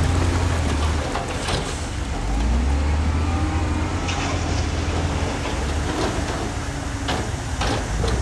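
Heavy diesel earthmoving machinery running at a steady low pitch that drops and changes about two and a half seconds in, with a few sharp metallic clanks scattered through.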